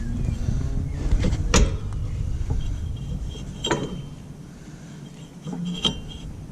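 Metal parts of a lawn tractor's mower deck being handled: three sharp metallic knocks and clinks about two seconds apart as a steel bar is pushed into its hole, over a low rumble that fades about halfway through.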